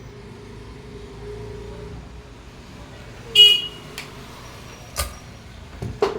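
A brief shrill tone with several overtones about halfway through, followed by a few sharp clicks over the last couple of seconds, over a low steady background hum.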